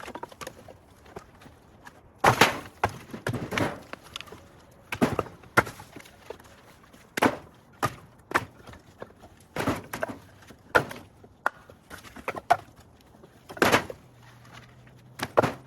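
Split firewood pieces knocking against each other as they are tossed onto a pile, a dozen or so irregular wooden knocks and clatters.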